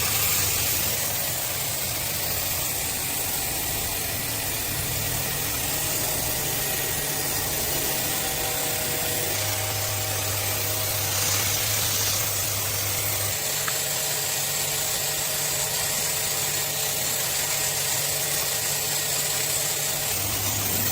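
A motor running steadily with a constant hiss, its low hum shifting slightly in pitch now and then.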